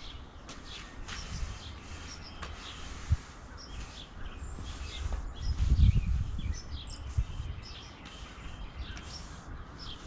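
Wild birds chirping repeatedly in short calls, over a low rumbling noise that swells briefly about six seconds in.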